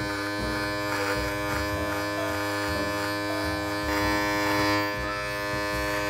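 Cordless electric beard trimmer running with a steady buzz as it is drawn over the neck, shaving the stubble below the beard's neckline. The buzz swells slightly about four seconds in.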